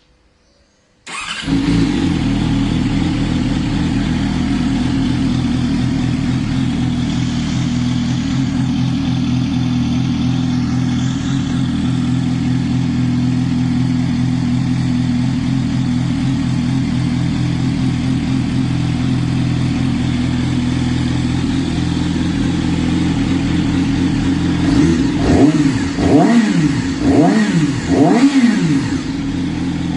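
Yamaha R6's inline-four sport-bike engine with an Akrapovic exhaust, starting from cold about a second in and idling steadily. Near the end it is revved in four quick blips, then drops back to idle.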